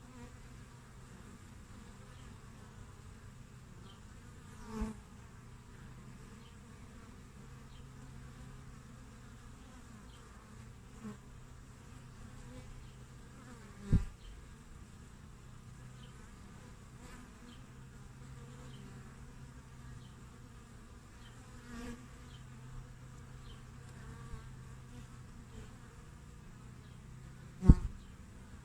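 Honeybees buzzing at a hive entrance: a steady hum of many bees, with single bees passing close to the microphone now and then. Three short, much louder sounds come right at the microphone: a small one early, a stronger one halfway, and the loudest near the end.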